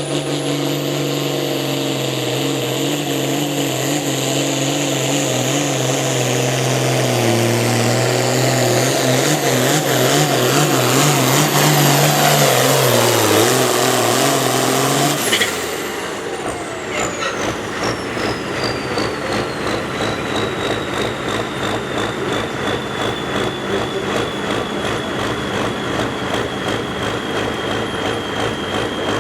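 Turbocharged engine of a truck or tractor in a pull, run hard under load with a high turbo whistle, its pitch sagging as it lugs down. About halfway through the throttle is cut suddenly. The turbo whine then winds down slowly while the engine settles to a lower, rougher running.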